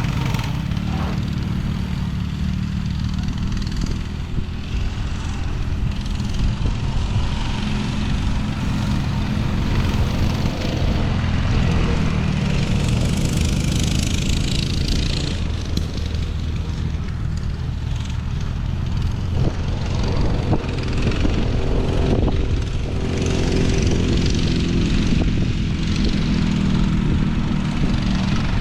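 Small off-road vehicle engine running steadily under way, its pitch holding with only small changes.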